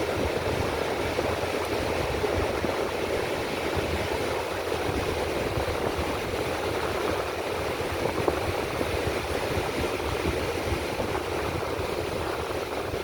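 Steady wash of ocean surf on the beach, with wind gusting across the microphone as a fluttering low rumble.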